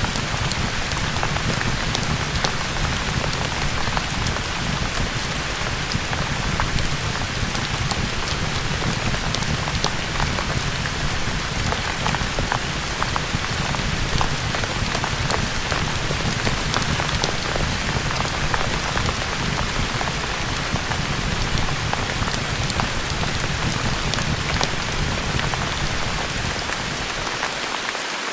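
Steady rain with a low rumble, mixed with the scattered sharp pops of a crackling fireplace. The low rumble drops out for a moment near the end.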